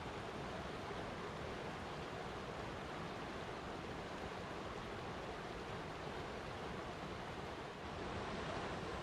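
Flowing water rushing steadily in an even, unbroken wash of noise.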